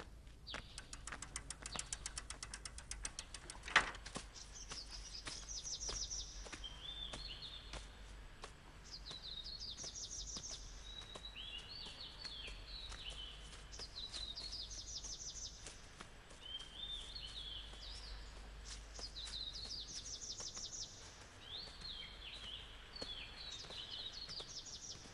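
A songbird singing, repeating a short, high chirping phrase every two to three seconds over faint outdoor background noise. Before the song starts, a fast run of ticks ends in one sharp click.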